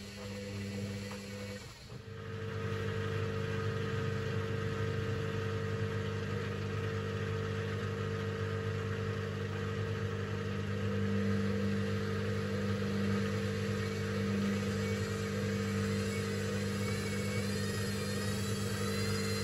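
Hoover VisionTech washing machine's motor running, a steady hum with a faint high whine. It dips briefly about two seconds in, then picks up and runs steadily again.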